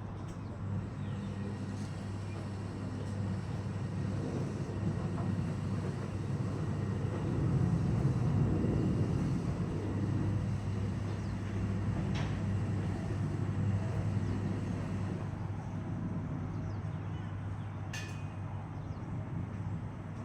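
A vehicle running with a steady low hum that swells midway and eases off again, with a couple of short sharp clicks near the end.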